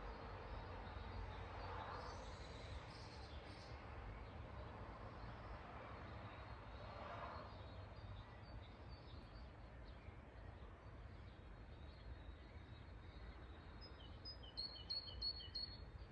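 Birds chirping over a steady low background rumble, with scattered faint high chirps; near the end, a quick run of about five sharp, high chirps stands out as the loudest sound.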